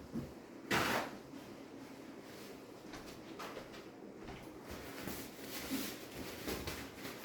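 A short hiss about a second in, a squirt from a spray bottle of streak-free glass cleaner, then a run of rubbing strokes as a paper towel wipes the microwave's door.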